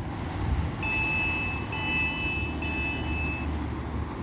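Passenger train's door-closing warning tone: three steady, high electronic beeps of about a second each, back to back, starting about a second in. Under them runs a low rumble of the standing train.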